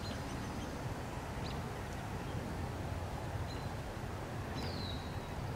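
Outdoor ambience: a steady low rumble in the background, with a small bird giving a few faint, short chirps, each a quick falling whistle.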